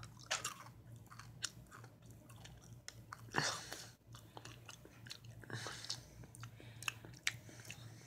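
A person chewing candy-coated Chili Nut peanut M&M's, with small irregular crunches and clicks and a couple of louder crunches.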